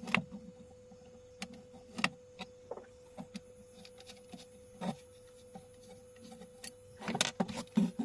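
Scattered light clicks and taps of small parts being handled as a mini amplifier board is taken out of its casing, with a faint steady hum underneath.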